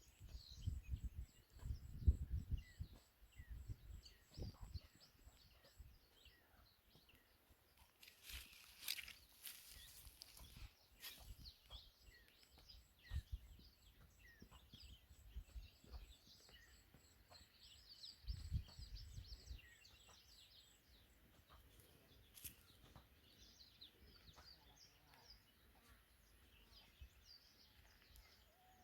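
Small birds chirping and calling with many short, high notes, faint against a quiet rural background. Low rumbles come in the first few seconds and again around eighteen seconds in, and a brief rustling hiss comes about nine seconds in.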